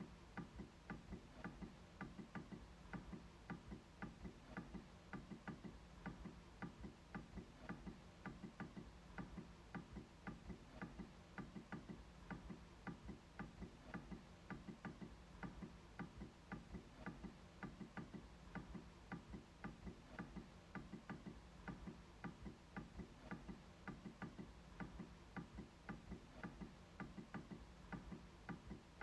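MacBook trackpad clicked over and over in an even rhythm: a steady run of faint clicks, about three a second.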